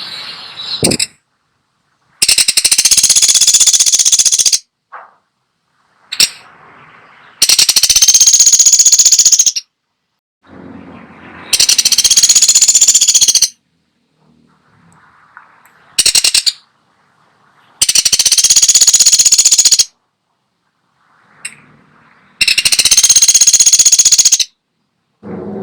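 Pelatuk sampit woodpecker giving loud, rapid, high-pitched rattling calls, each about two seconds long and repeated every four to five seconds: five long rattles and one brief one, with faint softer sounds in the gaps.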